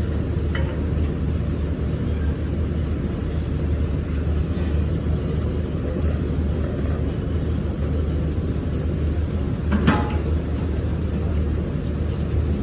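Steady low rumbling background noise with a single sharp click about ten seconds in.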